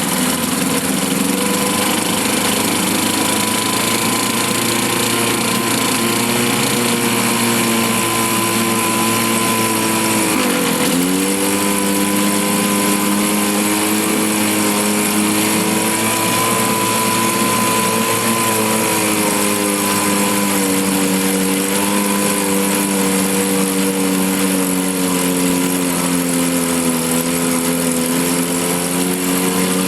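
1954 Johnson CD-10 5.5 hp two-stroke outboard motor running in a test barrel, a steady drone. About eleven seconds in its pitch dips briefly and recovers.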